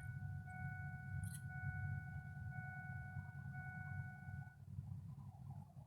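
A Ford F350's dashboard warning chime sounding as a steady tone after key-on, before cranking, stopping about four and a half seconds in. There is a click about a second in and a steady low rumble underneath.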